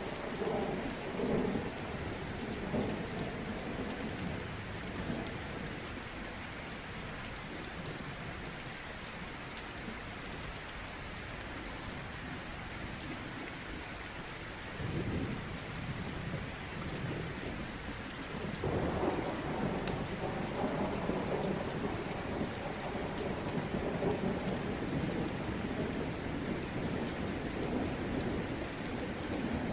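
Steady rain with rolls of thunder: a rumble at the start, a short one about halfway, and a long rolling rumble from about two-thirds of the way through, with small sharp ticks over the top.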